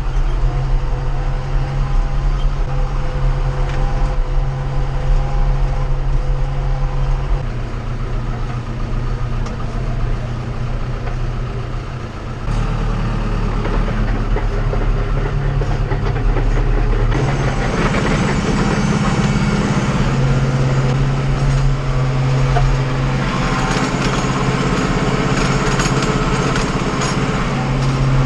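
Farm tractor's diesel engine running steadily under load, its note shifting a few times, about a third and a half of the way through and again a little later, with more rattle and hiss in the second half.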